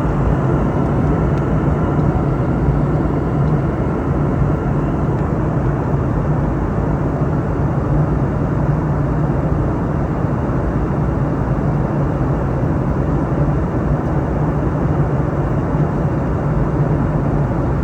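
Steady in-flight cabin drone of a Boeing 717-200: its rear-mounted Rolls-Royce BR715 turbofans and the rush of air past the fuselage, heard from a passenger seat as an even roar with a strong low hum.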